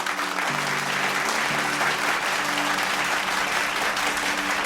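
Wedding guests applauding steadily as the newly married couple is presented, with soft music and held notes underneath.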